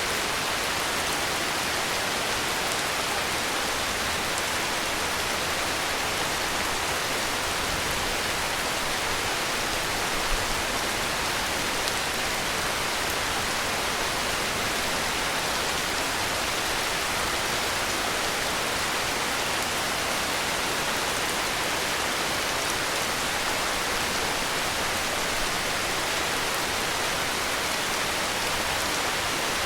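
Heavy rain falling in a steady, even hiss with no thunder or other sounds.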